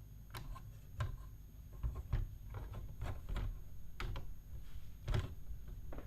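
Plastic clamp-brick model sections being handled and fitted back together, giving a string of light knocks and clicks at irregular intervals.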